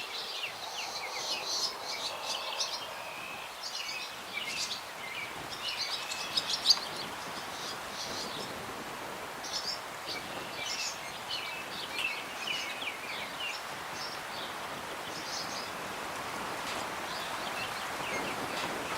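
Several songbirds chirping and calling over the steady rustle of a breeze through the branches of an old windbreak tree line. The chirping is busiest in the first seven seconds and thins out after that, while the breeze grows a little near the end.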